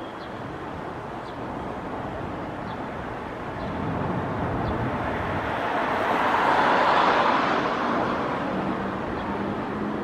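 Street traffic noise, swelling as a vehicle passes close by, loudest about seven seconds in, then fading.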